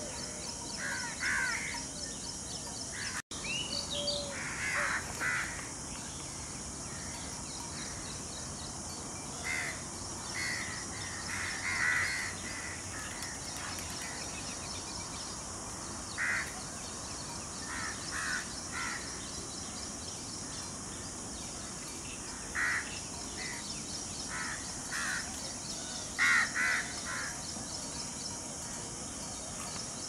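Birds calling: brief harsh calls at irregular intervals, often in twos or threes, over a steady high hiss. The sound cuts out for an instant about three seconds in.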